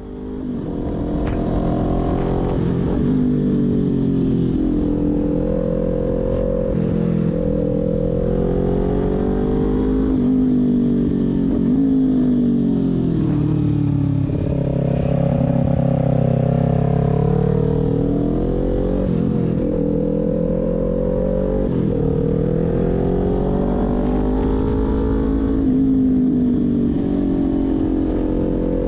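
Kawasaki Ninja 400's parallel-twin engine being ridden hard, its pitch climbing as it revs up and dropping away again, over and over every few seconds. The sound fades in over the first second.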